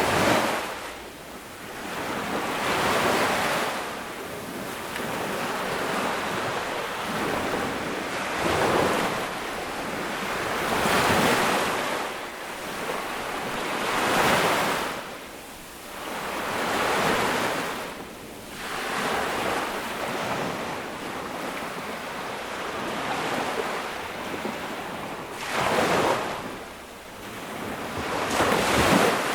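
Ocean waves breaking on a beach, one after another, each swelling up and washing back every few seconds.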